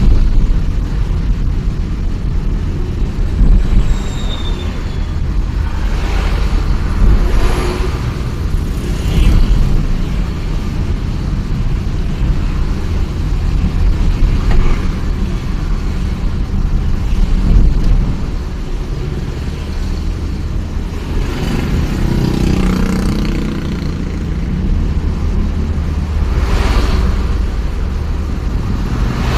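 Heavy road traffic of trucks and buses: a steady deep engine rumble, swelling louder about seven times as vehicles go by.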